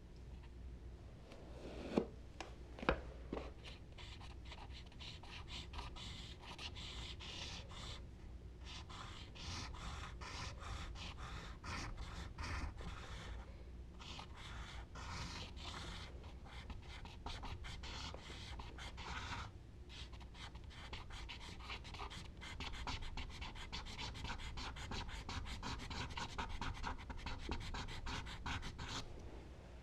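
Rapid back-and-forth strokes of charcoal scratching across paper, in long runs with brief pauses, stopping shortly before the end. Two sharp taps come about two and three seconds in.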